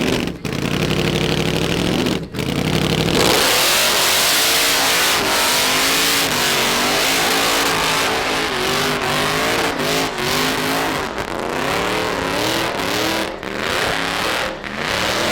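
Diesel truck engines at a truck show. In the first few seconds a steady, deep engine note breaks off twice. Then, about three seconds in, a loud rushing noise takes over while an engine revs hard, its pitch climbing and dropping again and again.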